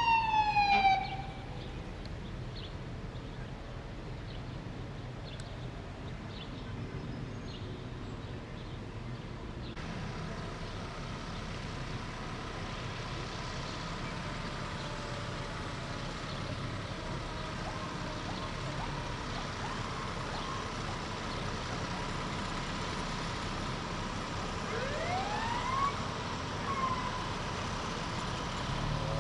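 A fire apparatus siren sweeping up and down that cuts off about a second in, followed by steady street background. Near the end a siren briefly winds up and falls again.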